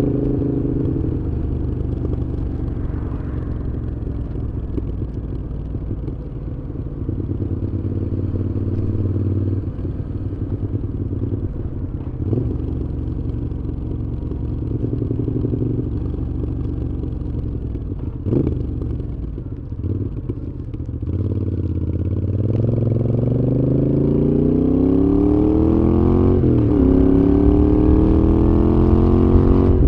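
Moto Guzzi V7's air-cooled transverse V-twin through Mistral aftermarket exhausts, running on the move at a fairly steady low pace. Near the end the revs climb for several seconds, drop sharply at a gear change and climb again.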